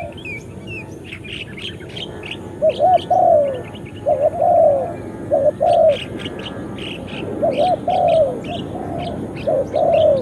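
Spotted dove cooing: repeated arched, hollow coo phrases, with small birds chirping throughout over a steady background hiss.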